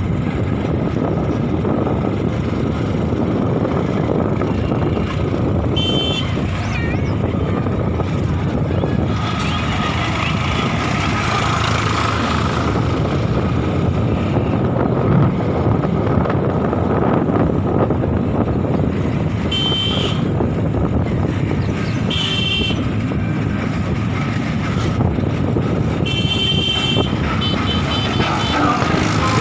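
Tractor diesel engine running steadily and loud, with several short high-pitched toots over it.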